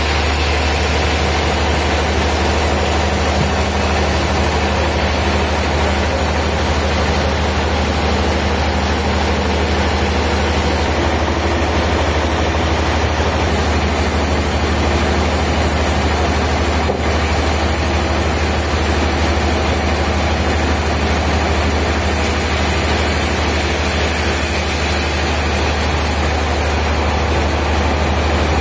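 A heavy engine running steadily at a constant speed, with a strong low hum and no change in pitch or load.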